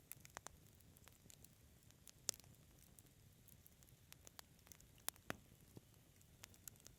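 Wood fire crackling in a fireplace: scattered sharp pops and snaps over a faint low hiss, the loudest pop a little over two seconds in.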